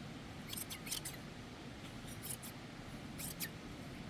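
Shears snipping through a sheep's wool: a few short, crisp snips, mostly in quick pairs.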